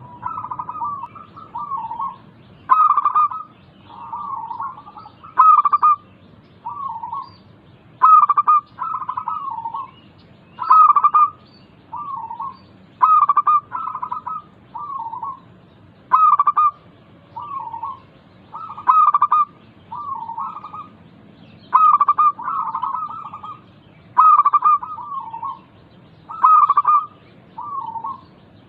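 Local zebra dove (perkutut) cooing: the same phrase of several short, rolling coos repeats every two to three seconds, each phrase opening with its loudest note.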